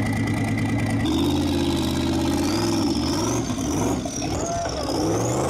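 Rock racing buggy's V8-style engine...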